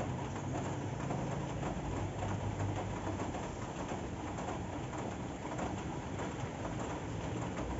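Steady rain falling, an even hiss of many small drops pattering, with a low hum underneath.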